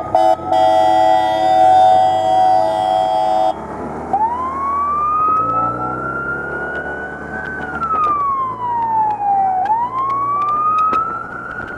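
Police motorcycle siren: a steady blaring horn tone for about three seconds, then a wail that rises, falls and rises again.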